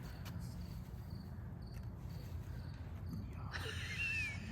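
Crickets chirping in short, evenly repeated pulses over a steady low background rumble, with a brief higher gliding sound near the end.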